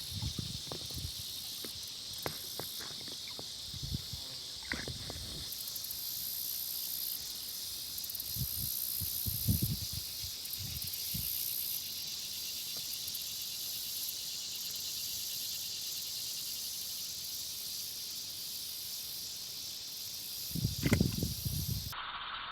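Steady high-pitched hiss of insects buzzing, with scattered short low thumps and a louder cluster of thumps near the end.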